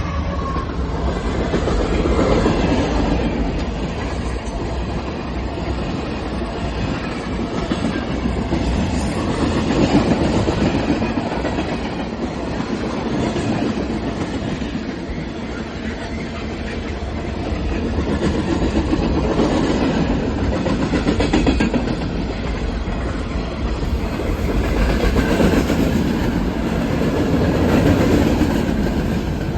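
Train running on rails: a continuous rumble with wheel clatter that swells and fades several times.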